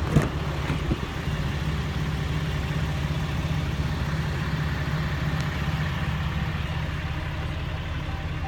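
Dodge Ram 3500's 6.7-litre Cummins turbo-diesel inline-six idling steadily, with a couple of light knocks in the first second.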